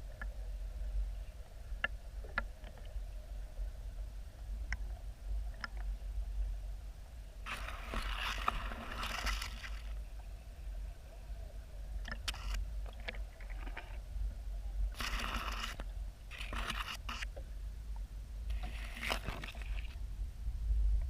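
Lake water sloshing and scraping against the camera's microphone, over a steady low rumble, with scattered sharp clicks and three spells of splashy hiss about a third, two-thirds and near the end of the way through.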